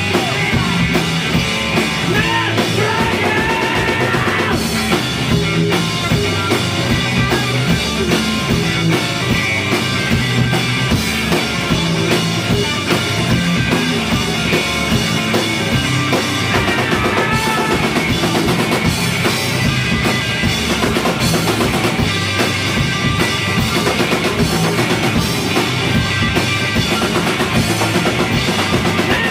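A rock band playing live, the drum kit driving under a dense, loud wall of band sound.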